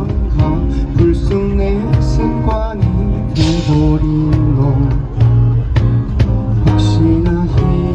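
Live band playing the instrumental intro of a pop ballad: guitars and keyboard over bass, with a cajon keeping a steady beat.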